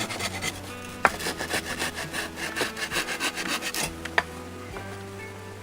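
Hand saw cutting wood in quick, even back-and-forth strokes that stop about four seconds in, with a sharp knock about a second in.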